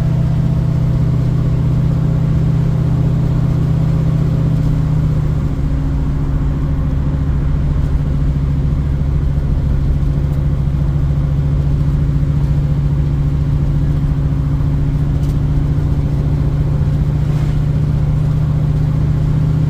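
1972 Ford Mustang Mach 1's V8, fitted with a Crane 2040 cam and breathing through a single 3-inch exhaust with a Black Widow Race Venom muffler, running steadily while the car is driven. The note shifts slightly about five seconds in.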